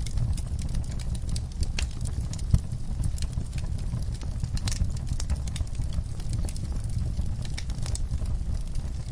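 Wood fire burning in a fireplace: a steady low rumble with scattered crackles and pops, one sharper pop about two and a half seconds in.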